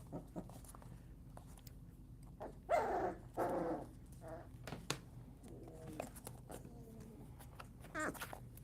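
Puppies barking: two short pitched yaps close together about three seconds in, and another near the end.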